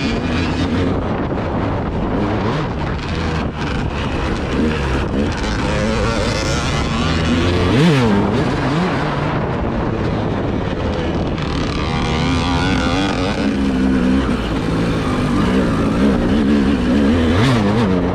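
A vehicle engine driven hard, its pitch climbing and falling over and over through revs and gear changes, with a sharp drop and climb about eight seconds in. Wind buffets the microphone the whole time.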